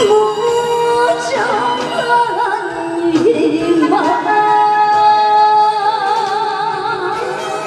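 A woman singing a trot song live over band backing music, ending on a long held note with a wide, even vibrato.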